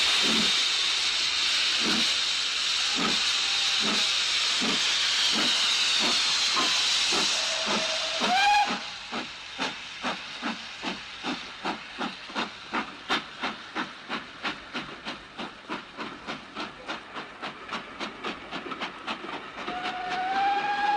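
Steam locomotive starting away: a loud hiss of steam with slow exhaust chuffs, a short whistle about eight seconds in, then steady chuffing at about two beats a second, picking up a little. A steam whistle sounds near the end.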